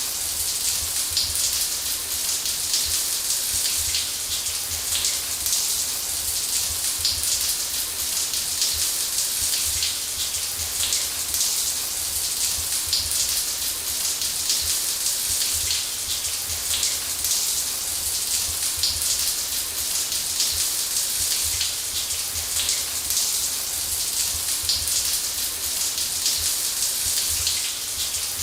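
Shower water spraying steadily onto a hard surface: an even hiss with fine pattering of drops and a low rumble underneath.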